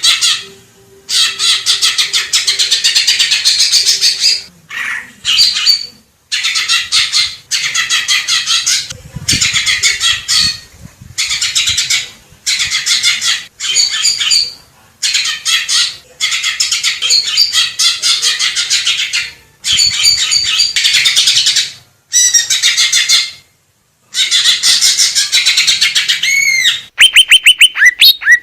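Cucak ijo (green leafbird) singing: loud bursts of rapid, varied chattering notes, each one to three seconds long, separated by short silences. Near the end comes a fast series of rising whistled notes.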